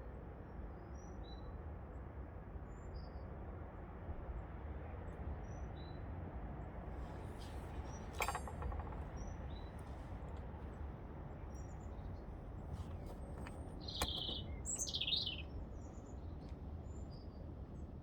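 Birds chirping faintly now and then over a steady low hum, with a louder pair of chirps about two-thirds of the way through. A sharp click sounds near the middle.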